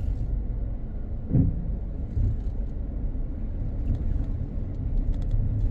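Steady low road and engine rumble of a car heard from inside the cabin while driving, with one brief louder thump about a second and a half in.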